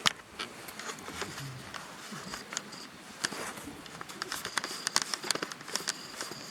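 Wood campfire crackling, with irregular sharp pops and snaps that come thicker and louder from about three seconds in.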